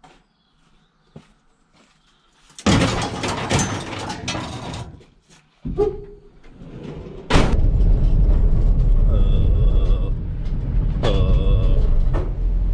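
Vehicle door noises: a door sliding, a second shorter movement, then a sharp slam. After the slam a steady low engine rumble runs on.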